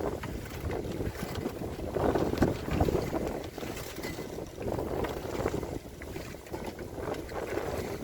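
Wind buffeting the microphone on a sailboat, with water washing along the hull, swelling and easing unevenly.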